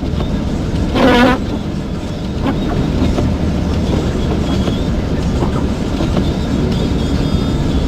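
Steady low rumble of a vehicle driving on a snow-covered highway, heard inside the cabin: tyre and engine noise with no clear breaks.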